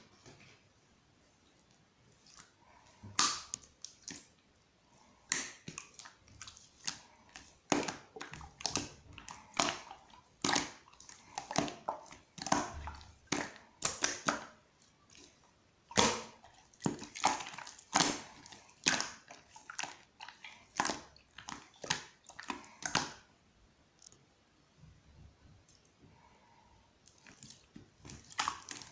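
Gold pearl slime being squeezed, stretched and folded by hand, making irregular wet crackles, pops and squishes in quick runs, with a quieter lull a little after the middle.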